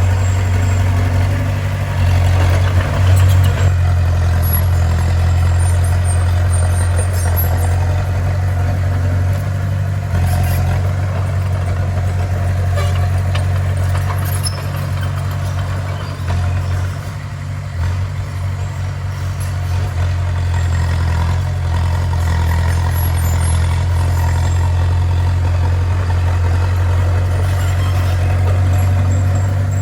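Bulldozer's diesel engine running steadily with a deep, even drone, easing off briefly a little past the middle.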